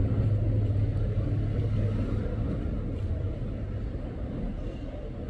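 A low rumble that is loudest for the first couple of seconds and then slowly fades.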